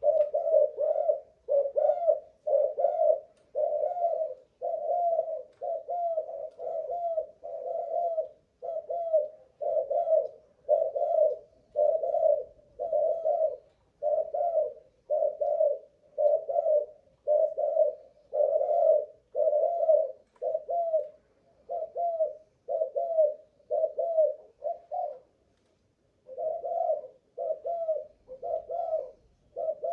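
Spotted dove (Malaysian cu gáy) cooing over and over: a long, even run of low coo notes, about three every two seconds, broken by one short pause near the end.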